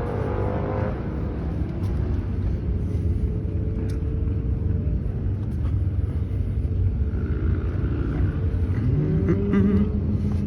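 A 26-foot Rendezvous boat's engine running steadily underway, a low rumble mixed with hull and water noise. The engine's pitch rises a little near the end.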